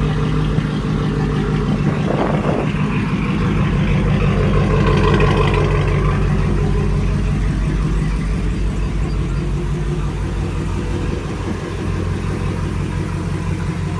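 2006 Chevrolet Silverado's 5.3 V8 idling through a muffler-delete exhaust, warming up after a cold start; the note swells a little about four to six seconds in, then settles back to a steady idle.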